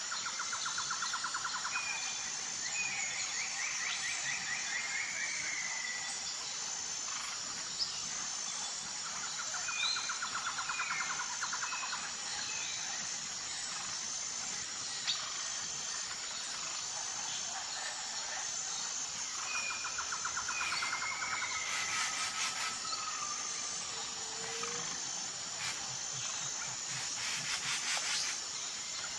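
Birds calling over a steady, high-pitched insect chorus that pulses evenly. A buzzy bird trill comes three times, about ten seconds apart, among short chirps and whistles.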